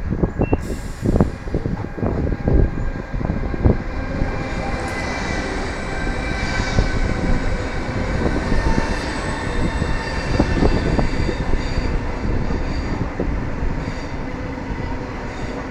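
Train rolling through the station, its wheels knocking irregularly over rail joints and points, with a steady rumble and thin high whining tones.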